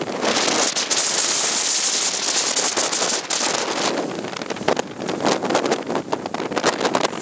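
Blizzard wind blasting across the microphone: a loud, steady rush for the first few seconds, then gusty and broken up by crackling buffets.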